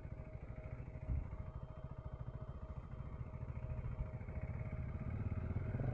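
Dirt bike engine idling, a steady rapid low pulse with a faint steady high tone over it.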